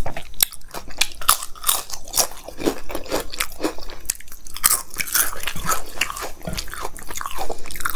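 Close-miked crunching and chewing of crisp papad eaten with dal and rice, many sharp irregular crunches in quick succession.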